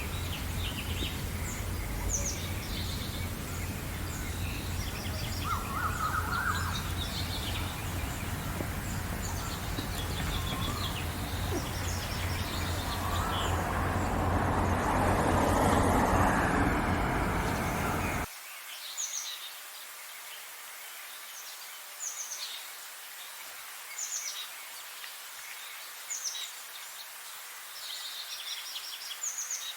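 Songbirds chirping and singing in many short, high calls over a steady low background rumble. A louder rushing noise swells up and then cuts off abruptly about two-thirds of the way through, leaving the birdsong alone over a much quieter background.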